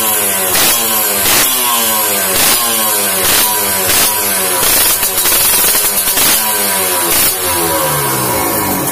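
Kawasaki Ninja 150 two-stroke single-cylinder engine through a racing exhaust, its throttle blipped about once a second; each time the revs jump and then fall away.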